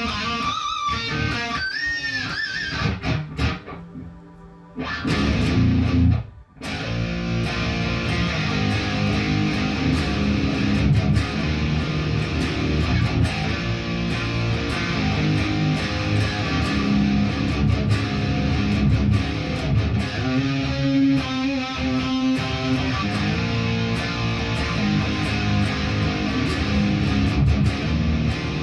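Electric guitar being practised: a few bent lead notes at first, a short lull about four seconds in, then continuous playing with the weight on the low strings.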